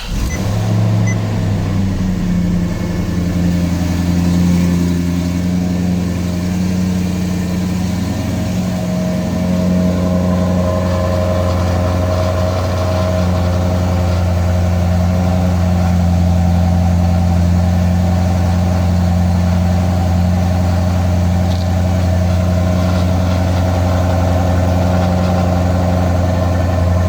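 Maserati GranTurismo coupe's V8 engine on a cold start: it catches at once, flares briefly in pitch, then settles into a steady idle.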